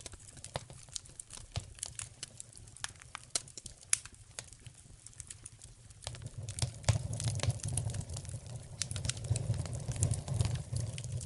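Wood fire in a fireplace crackling, with frequent sharp pops and snaps, and a low rumble of the flames that swells up about halfway through.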